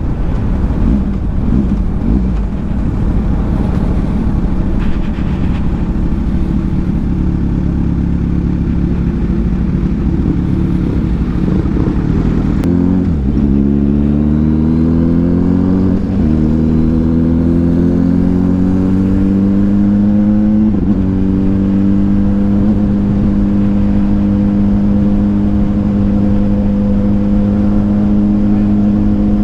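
Kawasaki Ninja 1000SX's inline-four engine through an AR aftermarket exhaust, heard from the bike while riding. It holds a steady note, then accelerates through three upshifts in the second half, the pitch dropping at each shift and climbing again, before it settles into a steady cruise.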